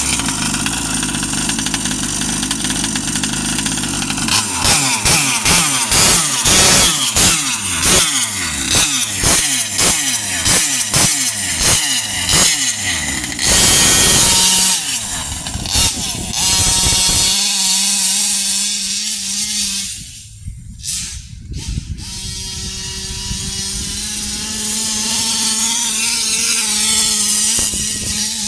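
45cc two-stroke engine of a 1/5-scale Baja 5T RC truck with a Big Gun exhaust, revving up and down in repeated throttle bursts. After about 17 seconds it settles to a steadier running note.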